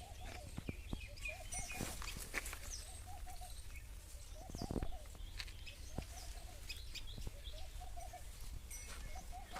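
Birds chirping, with short high calls throughout, mixed with scattered light clicks and taps over a steady low hum.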